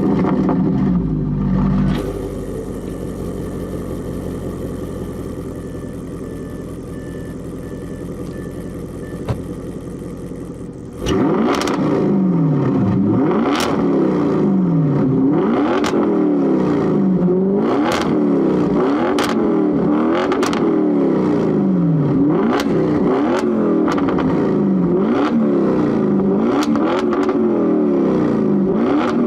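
Car engine heard through its exhaust: a rev at the start, then steadier, quieter running. About eleven seconds in, the throttle is blipped over and over, the engine note rising and falling about once a second, with a sharp crack at each peak.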